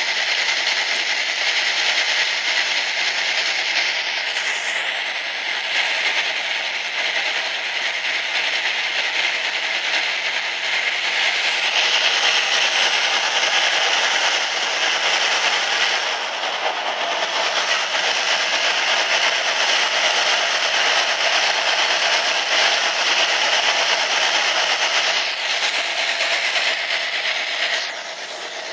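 Passenger train running through a long rail tunnel, heard from a carriage's open end platform: a steady, loud rush of wheel-on-rail and running noise. It drops in level just before the end.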